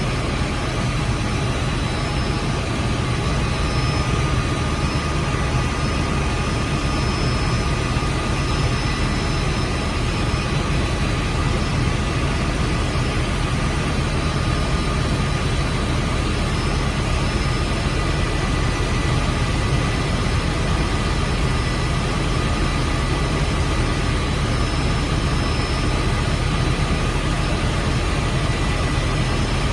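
Helicopter engine and rotors running steadily in flight: a constant low drone with a thin steady whine on top, unchanging throughout.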